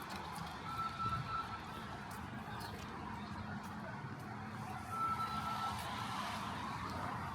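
City street traffic noise, with a short, steady, high-pitched beep lasting about a second that sounds twice, about four seconds apart.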